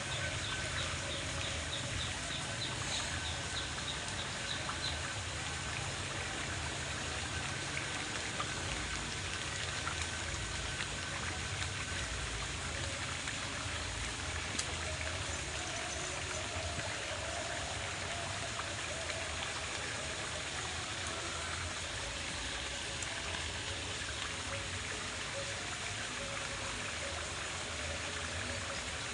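Steady rain falling, with water trickling and running.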